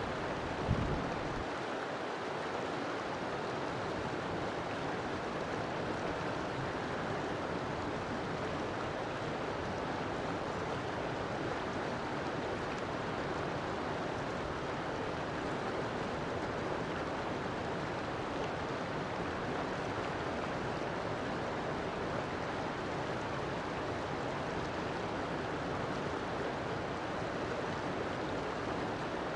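Steady rushing of river water flowing. A brief low thump comes about a second in.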